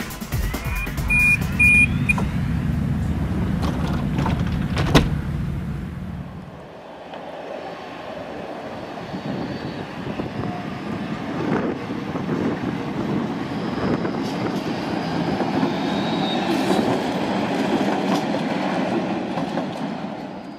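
Tram sounds: three short high beeps, as of a door-closing warning, over a low rumble of the tram, with a sharp click about five seconds in. From about seven seconds on, the steady noise of a tram running on its rails builds up and stays loud until it drops away at the very end.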